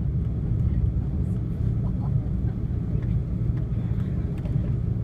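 Steady low rumble inside the cabin of an Airbus A330-300 on the ground before takeoff, its engines running, with a few faint ticks.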